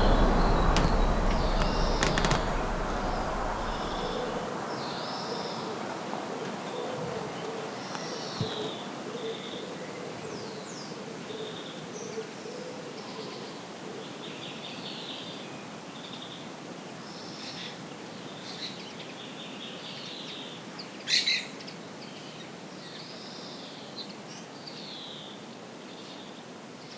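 Background music fading out over the first few seconds, then wild birds chirping and singing in many short calls, with a low repeated hooting note in the first half. One louder, sharp bird call comes about three-quarters of the way in.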